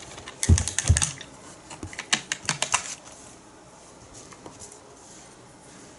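Quick, light tapping of a paintbrush against a hard surface, in two short runs of rapid clicks about a second apart, then quiet.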